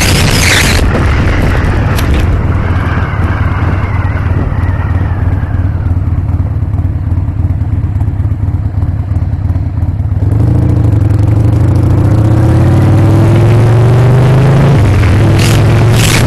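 Harley-Davidson Sportster's V-twin engine under way. The revs drop off for the first several seconds, then about ten seconds in the engine gets louder and climbs in pitch as the bike accelerates, with a brief dip near the end, typical of a gear change, before it climbs again.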